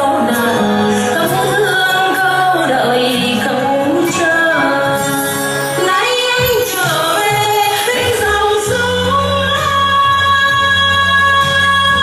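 A Vietnamese song sung by a woman in a drawn-out, wavering melody over instrumental accompaniment; a steady bass line comes in about eight seconds in.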